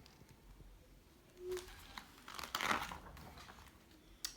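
Paper rustling, with the loudest rustle a little past the middle and a small click near the end: a picture-book page being turned.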